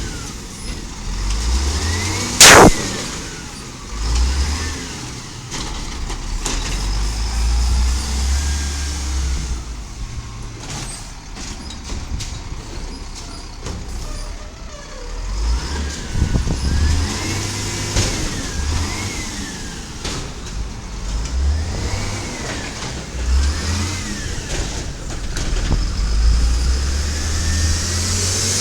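Diesel engine of a 1999 Volvo Amrep automated side-loader garbage truck, running and revving up in repeated surges. A single loud bang comes about two and a half seconds in, and rising-and-falling whines recur through the middle and later part.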